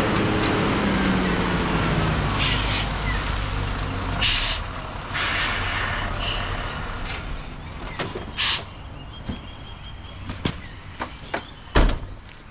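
The 7.5-litre diesel of a 2003 Mitsubishi Fighter dump truck running with its revs falling, followed by several short, sharp air hisses. The engine noise then drops away, leaving a few clicks and one heavy thump near the end.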